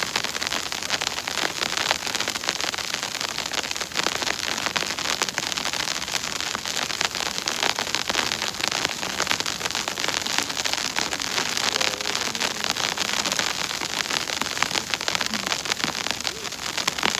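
Precipitation pattering steadily and densely on a surface close to the microphone, an even hiss of countless fine ticks.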